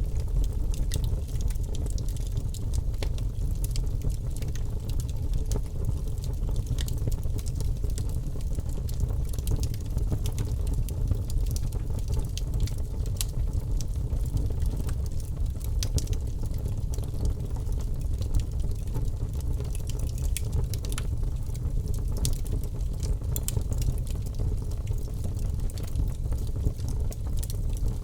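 Birch logs burning in a fireplace: a steady low rumble of flames with frequent, irregular small crackles and pops.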